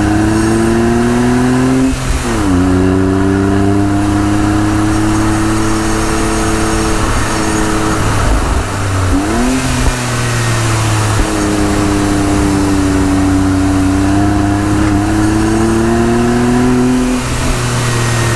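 Honda S660's small turbocharged three-cylinder engine pulling under acceleration through a manual gearbox. The revs climb steadily, drop sharply at gear changes about two seconds and about nine seconds in, then climb again, and fall back near the end.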